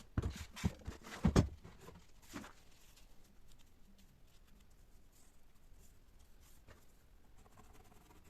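A quick run of knocks and short scrapes, the loudest just over a second in, then faint room tone for the rest.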